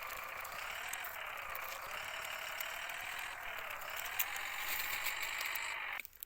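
Small motor of a toy vehicle whirring steadily with a slowly wavering pitch, cutting off suddenly just before the end.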